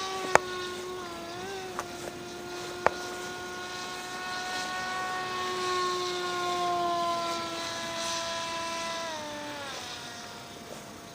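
Pusher-propeller model airplane's motor running in a steady high whine, its pitch wandering slightly and dropping as the throttle eases off near the end. Two sharp clicks cut in during the first three seconds.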